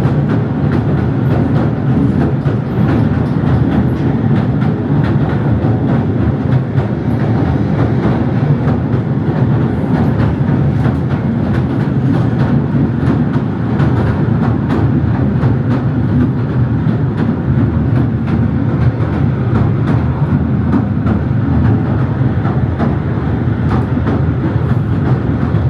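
Southend Pier Railway train running along the pier: a steady rumble with many small clicks of the wheels on the track.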